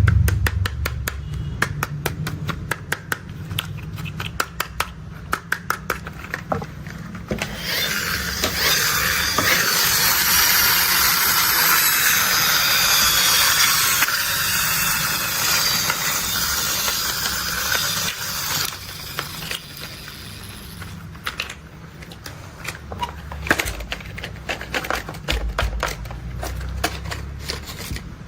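Toy construction vehicles being handled and played with: a fast run of small clicks and taps, then a steady rushing, grainy noise lasting about ten seconds, then scattered taps and clicks again.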